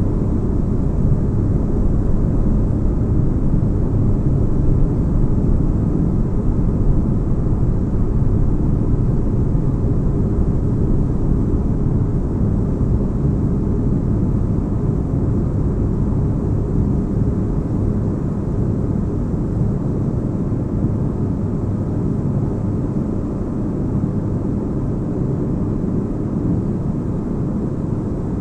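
Steady deep low rumbling hum of a spaceship ambience, like a starship's engine drone heard from inside, unchanging with no distinct events.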